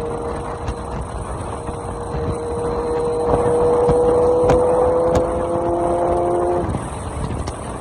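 Kawasaki Z900 engine through an SC-Project full exhaust system, held at high revs. Its note climbs slightly and gets louder from about three seconds in, then drops away near the end.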